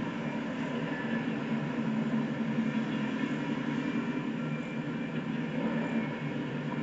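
Train rolling by with a steady, unbroken rumble.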